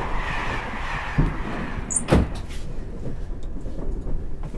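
Steady rumble of a train carriage in motion, with a single sharp knock about two seconds in.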